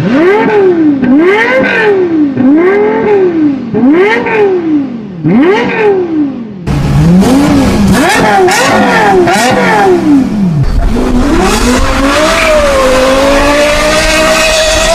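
Car engine revved hard through its exhaust in quick repeated blips, each rising and falling in pitch, about one a second. About six and a half seconds in, the sound cuts to another car revving a few times, then holding a steadier, wavering engine note over a deep rumble.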